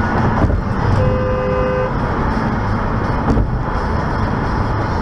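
A car horn sounds once, for about a second, over steady road and engine noise.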